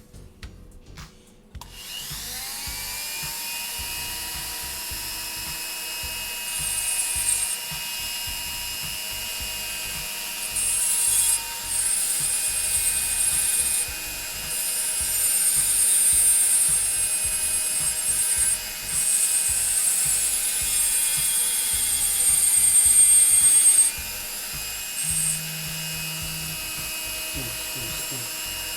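Dremel rotary tool spinning up about two seconds in and running with a steady whine, broken by repeated passes of high-pitched grinding as its bit grinds away the edge of an Apple Watch display's cover glass.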